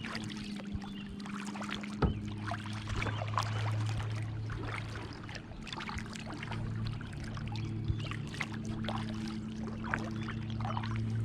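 Kayak paddle strokes in calm water: splashes and drips from the blades, over a steady low hum.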